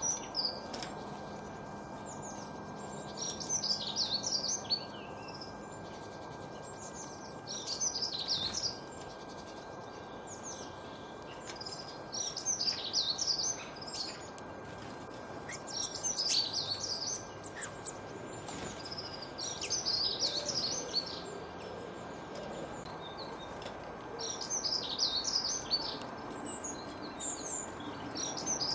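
A songbird singing short phrases of rapid high chirps, one about every three to four seconds, over a steady background hiss.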